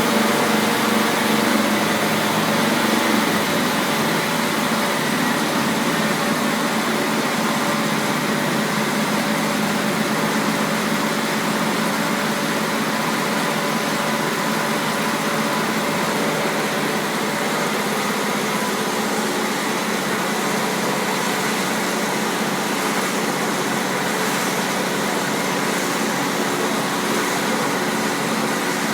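Taiga OS-1 electric log-rounding machine running, a steady mechanical noise with a continuous hum.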